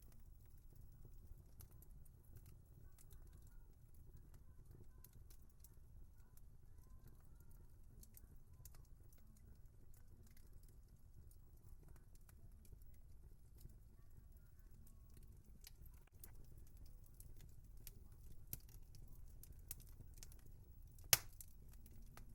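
Wood fire crackling softly over a low rumble of flames, with scattered small snaps, a few sharper pops in the latter half and one loud pop near the end.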